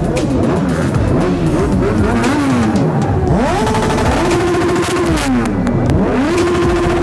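Superbike engines revved hard with the bikes standing: quick blips rising and falling, then twice held at high revs for about a second before dropping back.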